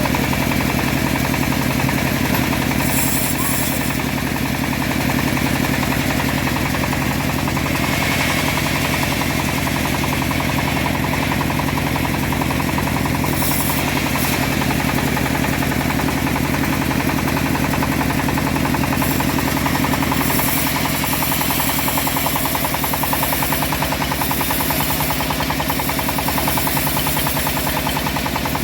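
Engine-driven homemade bandsaw sawmill running steadily, the engine giving a fast, even knocking pulse, with brief bursts of higher hiss from time to time.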